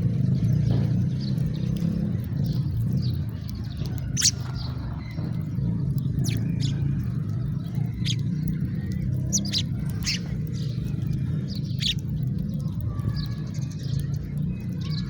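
House sparrows chirping: short single chirps every second or two over a steady low rumble.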